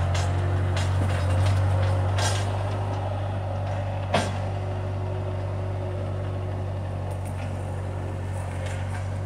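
Bobcat skid-steer loader's engine running steadily, with scattered light knocks and one sharp knock about four seconds in.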